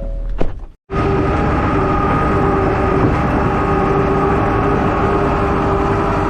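Truck driving at a steady speed: constant engine and road noise with a steady whine. It starts abruptly about a second in, after a brief gap.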